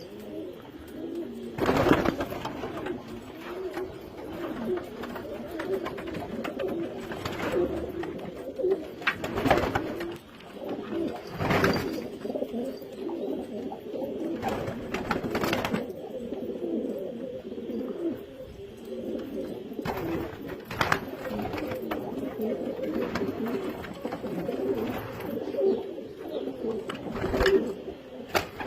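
Domestic pigeons cooing continuously, with a few sharp knocks now and then.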